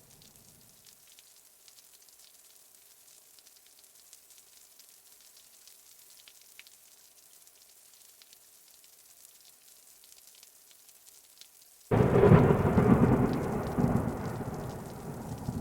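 Light rain hissing steadily, then about twelve seconds in a sudden loud clap of thunder that rumbles deep and slowly fades.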